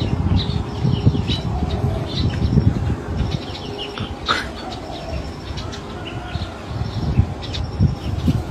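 Small birds chirping repeatedly, over an irregular low rumble on the microphone.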